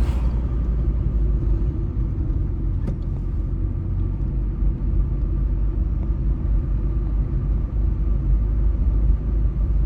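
Steady low rumble of a car driving along the road, engine and tyre noise heard from inside the cabin, with one faint tick about three seconds in.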